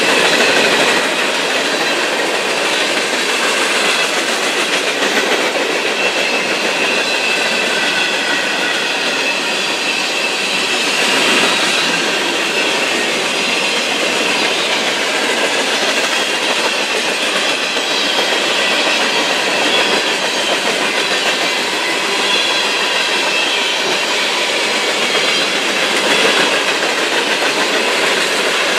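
Freight train cars rolling past steadily, wheels clacking over the rail joints, with thin high squealing tones from the wheels on the rails throughout.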